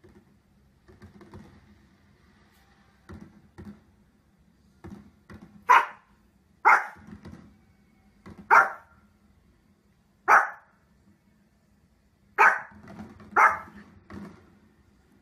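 Pomeranian barking indoors: after a few seconds of only faint, soft sounds, it gives six sharp single barks spaced one to two seconds apart.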